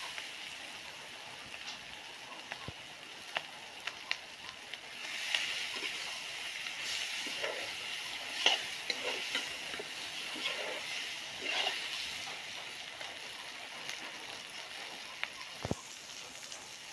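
Spiced curry masala frying in a black iron kadhai over a wood fire: a steady sizzle with scattered sharp clicks, growing louder for a stretch from about five to twelve seconds in.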